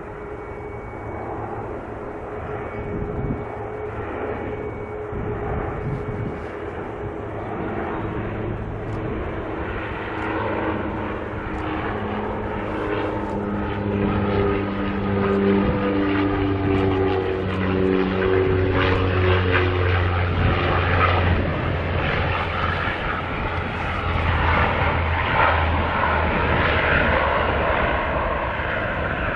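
Turboprop airliner engines and propellers running, growing louder. The propeller hum falls in pitch partway through.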